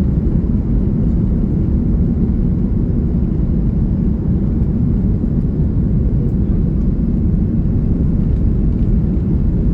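Steady low rumble of an Airbus A330-300's engines and airflow heard from inside the passenger cabin.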